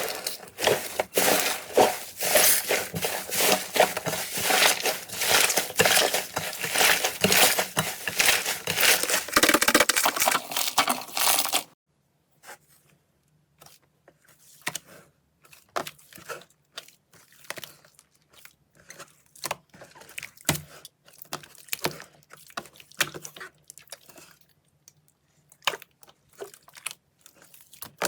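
Slime being squeezed and pressed by hand, making dense crackling and popping clicks. About twelve seconds in the sound cuts off abruptly and gives way to sparser, quieter clicks and pops.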